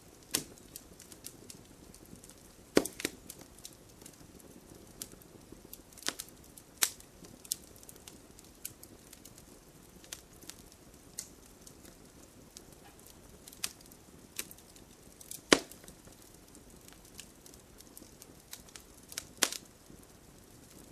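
Campfire burning, wood crackling with irregular sharp pops over a soft hiss; the loudest pop comes about three-quarters of the way through.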